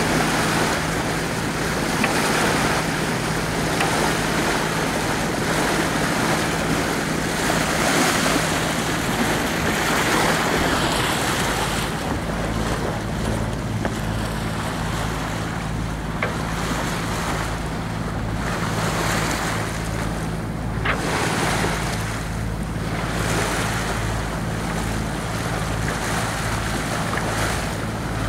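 A boat's engine running steadily under way, with water rushing past the hull and wind buffeting the microphone in surges. About twelve seconds in, the engine's hum shifts to a deeper note.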